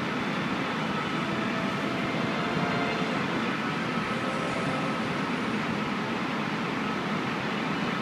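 Train running, heard from inside the passenger carriage: a steady rumble with a faint, constant whine.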